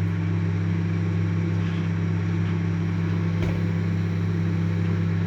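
Microwave oven running: a steady low hum with fan noise, with one faint click about three and a half seconds in.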